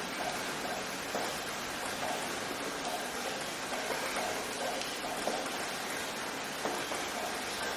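Steady rain falling, an even hiss with scattered drop patters on a surface.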